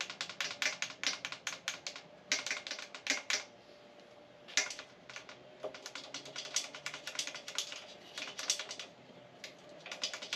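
Light, quick metallic clicking and ticking of small engine parts being handled, in irregular runs of several clicks a second with a quieter pause about four seconds in.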